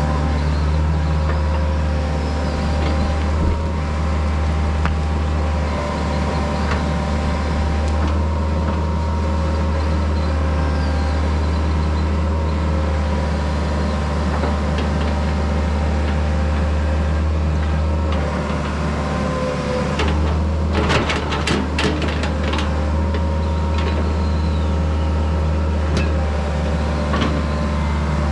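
Diesel engine of a piece of earthmoving equipment running steadily under work, with a quick cluster of knocks about twenty-one seconds in.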